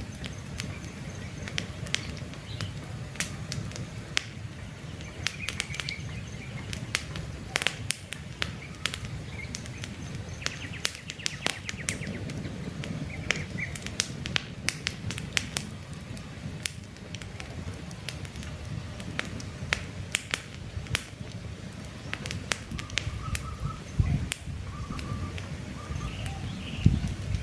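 Wood campfire crackling with frequent sharp pops over a low steady rumble, while birds give short chirps every few seconds.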